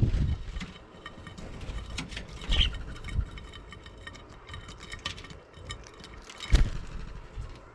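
Starlings pecking at a dish of mealworms close to the microphone: a rapid, irregular patter of beak taps and clicks, broken by a few louder thumps, the loudest near the end.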